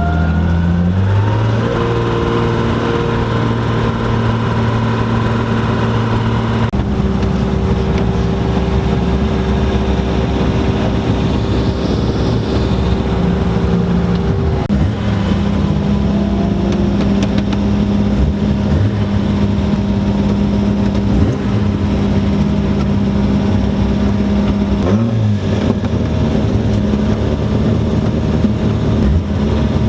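BMW E30 rally car's engine heard from inside the cabin, running hard under load. Its note holds steady for several seconds at a time and shifts in pitch a few times as the revs change.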